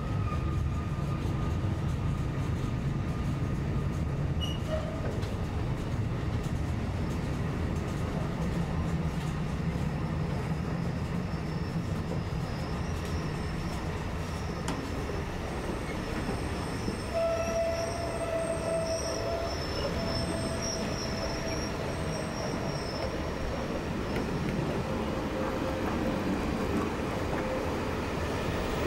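Track-renewal works train with a Matisa P95 renewal machine rolling past: a steady rumble of wheels on the rails, with thin squealing tones that come and go, strongest about two-thirds of the way through.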